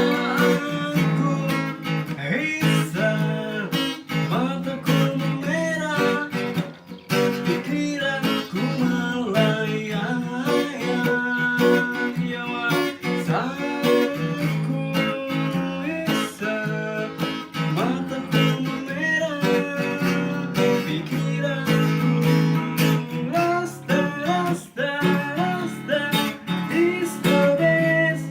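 Acoustic guitar music, strummed chords with a picked melody line over them.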